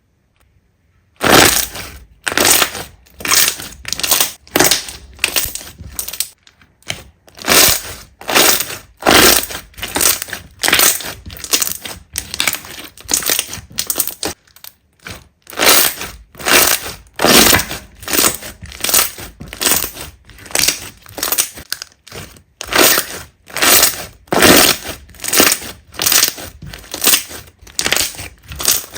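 Slime being squeezed and pressed by hand close to the microphone, a run of squishes roughly once a second that starts about a second in.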